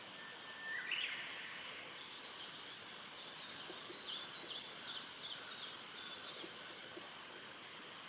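Bird calls over a steady high background hiss: one short rising note about a second in, then a quick run of about six sharp sweeping notes between four and six and a half seconds.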